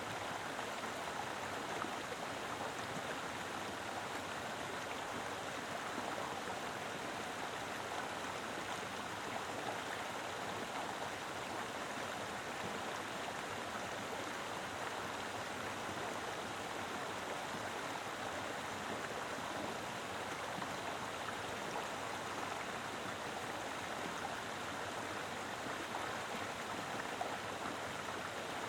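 Mountain river flowing: a steady, even rush of water over rocks, unchanging throughout.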